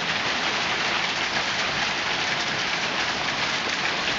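Heavy rain mixed with small hail pouring down steadily, a dense even patter of countless tiny impacts.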